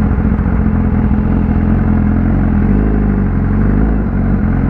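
BMW S1000RR inline-four engine running under way through a loud exhaust, holding a steady note with a slight shift in pitch about two and a half seconds in.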